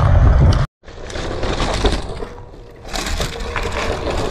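Electric scooter riding over rough, patched asphalt and loose gravel. Heavy wind noise on the microphone, then the sound cuts out briefly under a second in, followed by tyre rumble and rattling clicks over the bumps with a faint steady hub-motor whine.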